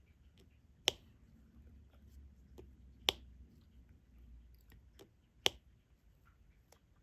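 Diamond-painting stylus placing resin drills onto the adhesive canvas: three sharp clicks about two seconds apart, with faint ticks and taps between them.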